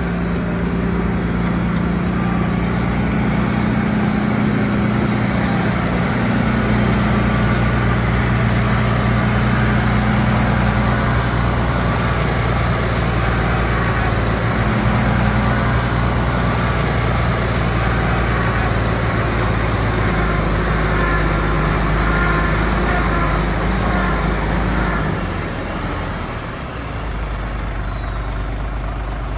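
Heavy diesel engine of construction machinery running steadily under load, its pitch shifting a little, easing off near the end.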